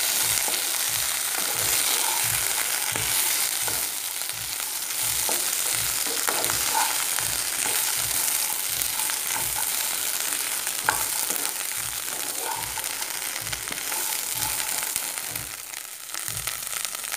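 Diced raw papaya and peas sizzling in oil in a nonstick frying pan, stirred with a wooden spatula in regular strokes about twice a second. The sizzle eases off near the end.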